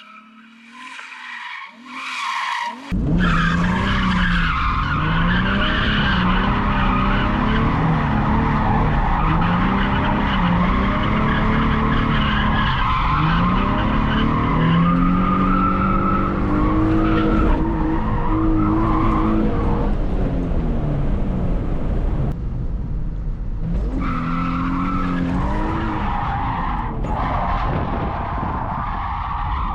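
A drift car sliding with its tyres squealing and its engine revving up and down over and over. The sound starts suddenly about three seconds in and dips briefly past the twenty-second mark.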